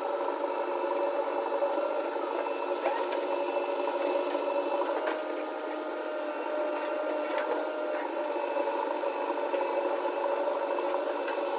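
Diesel engine of heavy earthmoving or farm machinery running steadily at work, with a few faint clicks.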